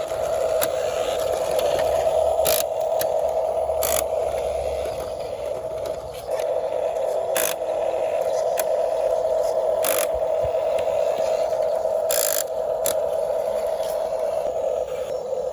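Small electric motors and gearboxes of RC toy construction vehicles running with a steady whine, with a few scattered clicks from the plastic mechanisms.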